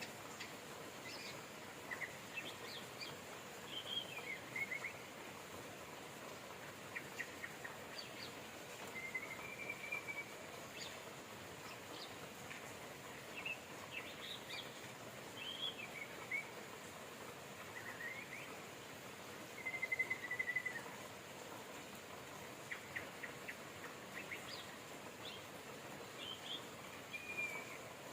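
Steady hiss of rain with birds chirping and whistling at intervals throughout: short rising and falling whistles, and quick runs of chirps.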